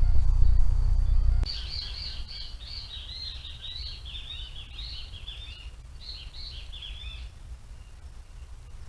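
A bird singing a rapid series of short chirping notes for about six seconds, stopping near the end. It is preceded by a loud low rumble that cuts off abruptly about a second and a half in.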